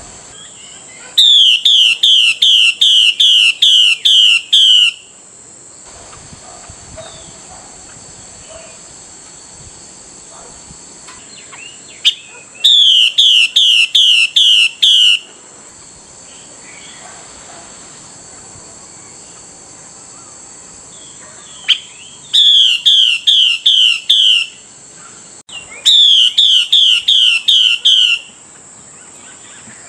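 Female Chinese hwamei (melodious laughingthrush) giving its 'xùy' call: four loud bouts of quickly repeated, steeply falling notes, about three a second, the kind of call used to rouse a male to sing. A steady high hiss runs underneath.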